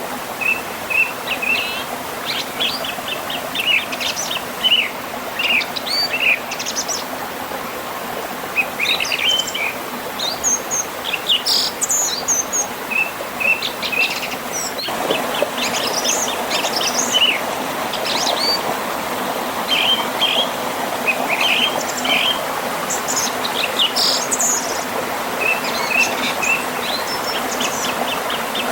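Several birds chirping and trilling in quick repeated phrases over the steady rush of a river and small waterfall. The water grows a little louder about halfway through.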